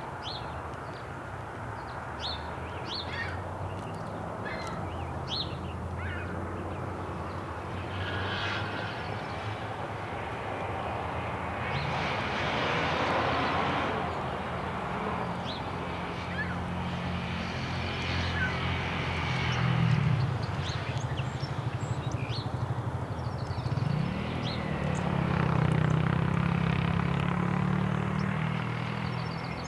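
Short bird chirps, most in the first few seconds, over the low drone of an engine that swells and fades twice as it passes.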